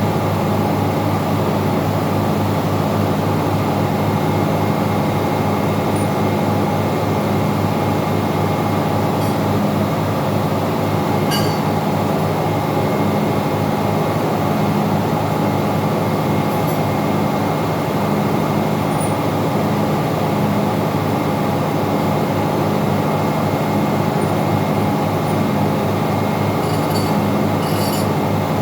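Steady, loud drone of running machinery holding several constant tones, typical of a ship's engine room, with a few faint light clicks of tools or metal parts.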